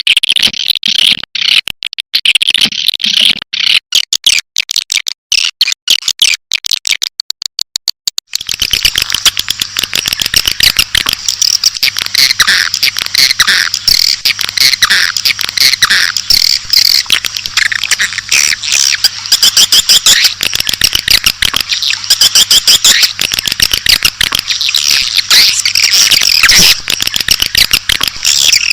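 Swiftlet lure recording: a dense chorus of rapid swiftlet chirps and twitters. About eight seconds in it changes from sparse, clicky calls to a thicker, continuous chorus with a faint low hum beneath.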